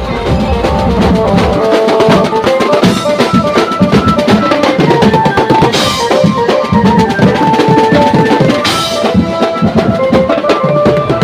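Fast, dense drumming with a melody line played over it, loud and steady throughout.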